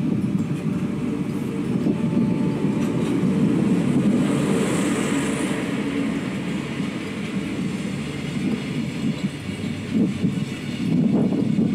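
Train running on rails: steady running noise with a brief high hiss about halfway through.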